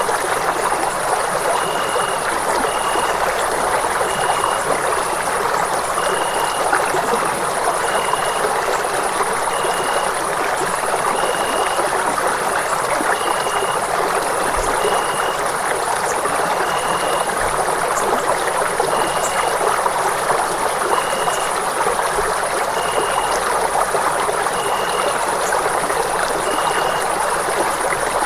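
Running water with a steady, even rush, like a stream. A faint short high tone repeats about every second and a half.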